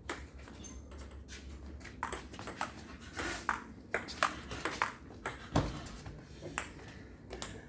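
Table tennis rally: a celluloid ball clicking back and forth off the bats and the table, about a dozen quick, irregular hits, with a heavier knock about five and a half seconds in.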